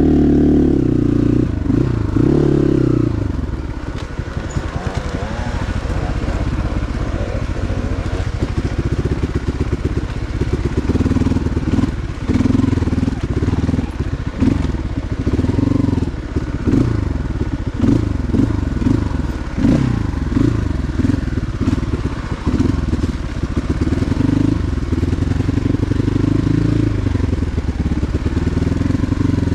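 Motorcycle engine running under way, its revs rising and falling again and again.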